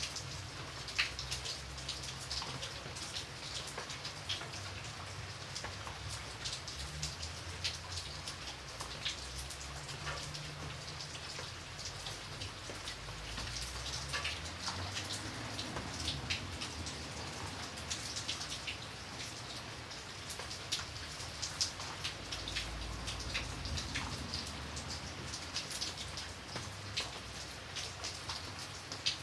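Steady rain, with many separate drops tapping close by over a faint low rumble.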